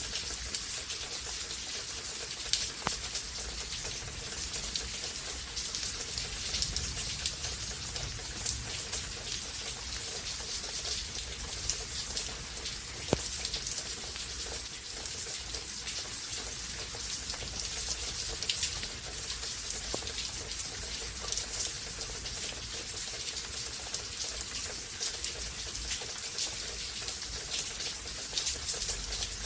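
Steady rain falling, with a dense patter of individual drops hitting surfaces and an occasional louder drip.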